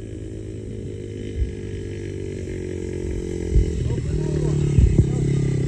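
Small dirt bike engine running steadily, then revving higher and louder about three and a half seconds in, with a few low thumps on the microphone.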